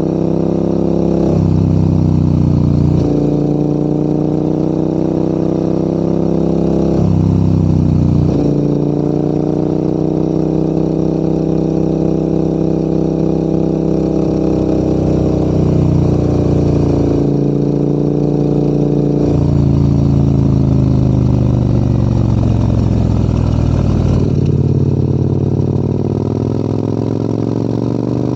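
Adventure motorcycle engine pulling uphill, its note stepping up and down several times as the revs change, with a slow drop in revs about three-quarters of the way through.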